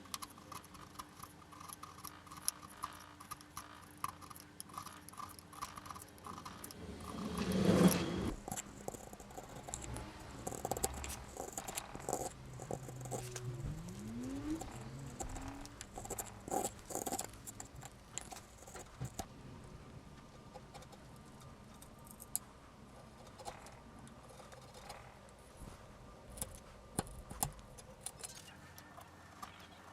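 Faint, scattered scraping and clicking of a hand-forged scabbard chisel working wood, with a louder swell of noise about eight seconds in and a short rising tone around fourteen seconds in.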